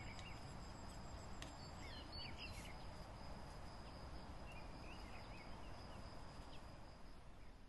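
Birdsong: short chirps and twitters from small birds, a cluster in the first three seconds and more around five seconds in, over a steady low outdoor rumble and a thin, continuous high whine, with a few light clicks.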